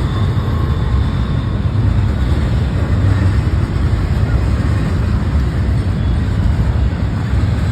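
Intermodal freight train's container cars rolling past close by: a loud, steady rumble of steel wheels on the rails.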